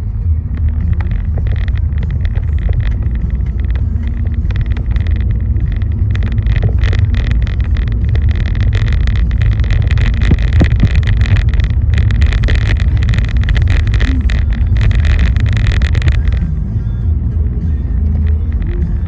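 Steady low road rumble of a car driving, heard from inside. A dense crackling sits over it from about a second in and stops about sixteen seconds in.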